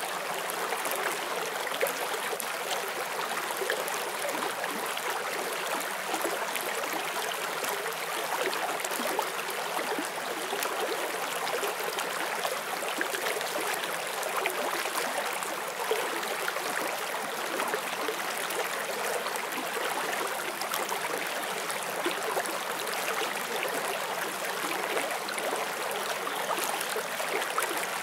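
Forest stream flowing over rocks, a steady rush of water with small splashes and gurgles running through it.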